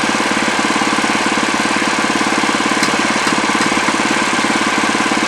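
Wood-Mizer LX25 sawmill's engine running steadily with a fast, even pulse.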